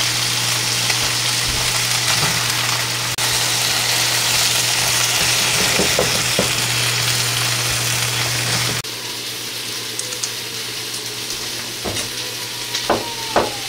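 Chunks of eggplant sizzling in pork belly fat in a frying pan, stirred with chopsticks, over a steady low hum. About nine seconds in the sizzle cuts off abruptly to a quieter sound, with a few light knocks as a garlic clove is handled on a plastic cutting board.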